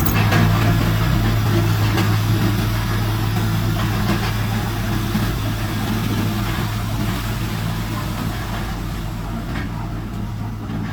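Heavy diesel engine of earthmoving machinery running steadily, a low engine note with mechanical noise above it.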